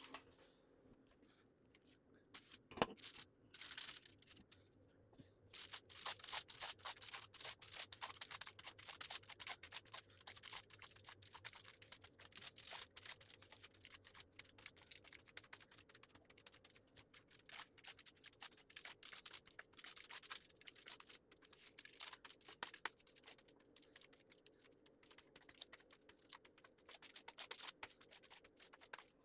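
Quick, irregular small clicks and scratches, several a second, starting in earnest about five seconds in, from hands and utensils working at a kitchen counter.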